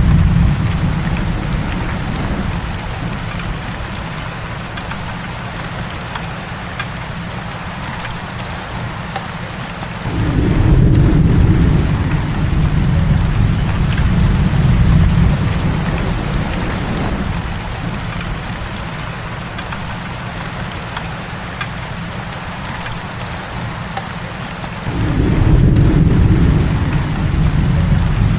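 Heavy rain falling steadily, with low rolls of thunder: one dying away at the start, one rolling in sharply about ten seconds in and fading over several seconds, and another near the end.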